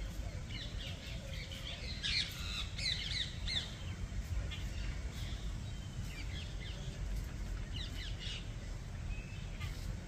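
Birds calling in short, high chirps and squawks, a busy cluster about two to four seconds in, then scattered calls, over a steady low rumble.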